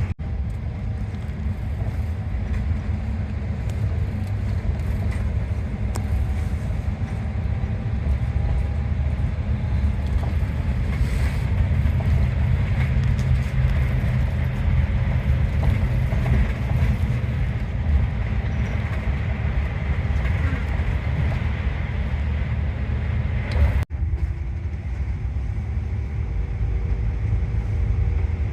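Steady low rumble of a highland tour bus's engine and road noise heard from inside the cabin as it drives, with a momentary break about 24 seconds in.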